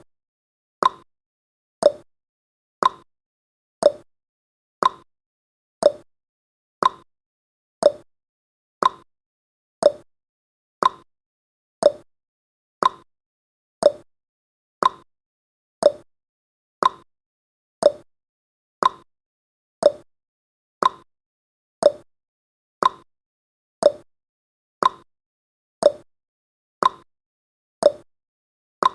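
Countdown timer's ticking sound effect: one short, sharp tick every second, each dying away quickly, with silence in between.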